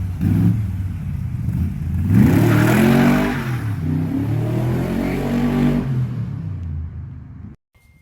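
A 350 Chevy V8 in a Dax Cobra revving twice, its pitch rising and falling each time, then dropping back and fading before cutting off abruptly near the end.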